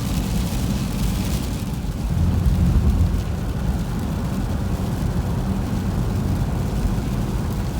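Road noise inside a moving car's cabin: a steady low rumble of tyres and engine at cruising speed, swelling slightly about two seconds in.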